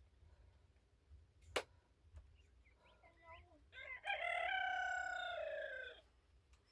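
A rooster crowing: a few short rising notes, then one long held note lasting about two seconds. A single sharp knock comes about a second and a half in.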